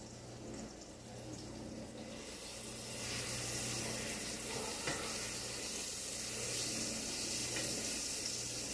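Chicken frying in a pan, a steady sizzle that grows louder about two to three seconds in, over a low steady hum.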